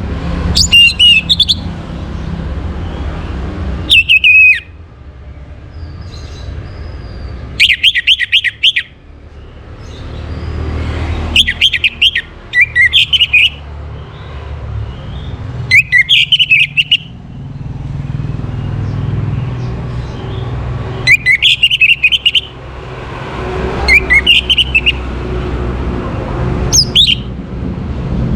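Orange-headed thrush singing short, loud, warbling phrases, about eight in all, each a second or so long and repeating every few seconds. A steady low rumble continues underneath.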